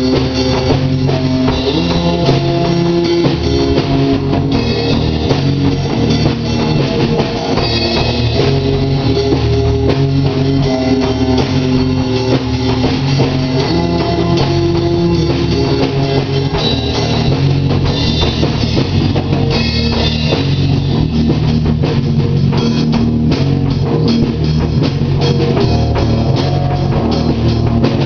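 Rock music: guitar with a steady drum-kit beat and bass, in a stoner rock style.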